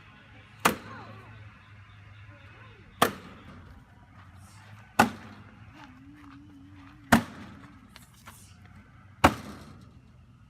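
Nails being driven into pallet wood: five sharp single strikes, evenly spaced about two seconds apart.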